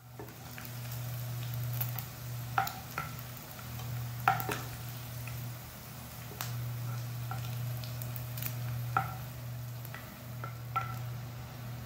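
Marinated chicken pieces frying in shallow sunflower oil in a nonstick pan, sizzling steadily, while a steel spoon scoops them out, with a few sharp clinks and scrapes of the spoon on the pan. A steady low hum runs underneath.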